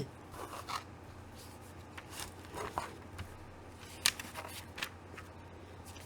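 Paper pages of a comic book being turned and handled: soft intermittent rustles and light clicks, with a sharper crisp snap about four seconds in.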